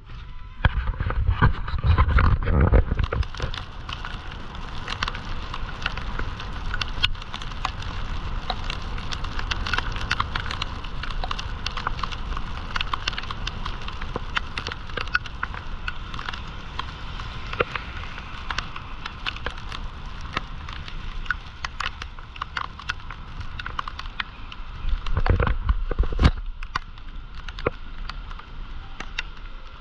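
Floodwater of a swollen river rushing in a steady roar full of small crackles. There are two heavier low rumbles, about a second in and near the end.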